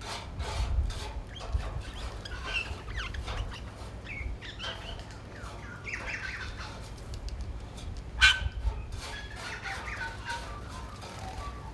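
Wild birds gathered at a feeding spot, giving many short calls that bend in pitch, mixed with short sharp sounds throughout, the loudest about eight seconds in.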